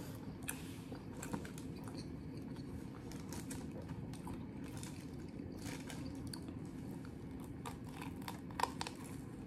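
Chewing a beef sandwich in crisp waffle-toasted bread: soft mouth clicks and small crunches, with a sharper crunchy bite near the end. A steady low room hum sits underneath.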